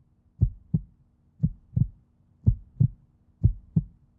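Heartbeat sound effect: paired low thumps, a lub-dub repeating about once a second, four beats in all.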